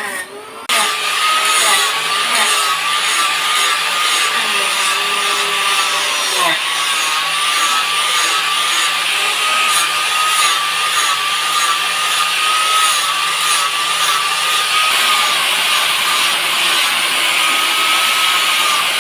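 Handheld electric power tool working the golok's wooden mahogany handle. It starts suddenly just under a second in and runs steadily, with a wavering motor whine over a loud rasping noise.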